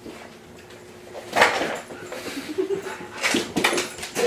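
A dog making short vocal sounds during rough play with a cat, with sharp scuffling clicks in between. It starts about a second and a half in, after a quiet moment.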